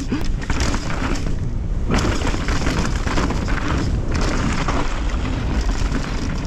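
Mountain bike riding down a rough dirt trail: wind rushing over the camera's microphone, with tyres rumbling and the bike rattling and knocking over bumps.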